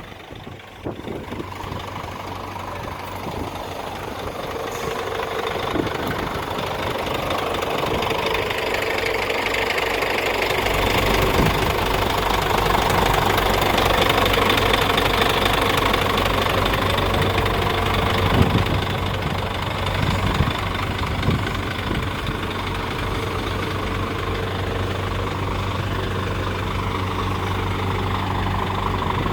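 Scania P410 truck's diesel engine idling steadily, growing louder over the first ten seconds or so.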